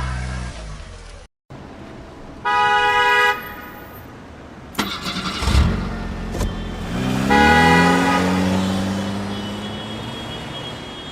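A vehicle engine runs and cuts off abruptly, then a horn toots once for about a second. A few knocks follow, then an engine revs up and settles, fading slowly.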